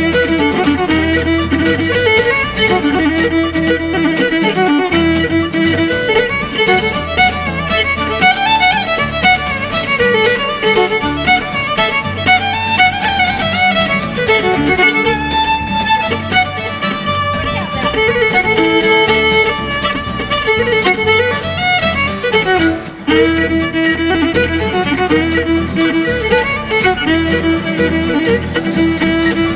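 Fiddle playing a fast Irish jig, the melody in quick running notes over a rhythmic low accompaniment, with a brief drop in level about 23 seconds in.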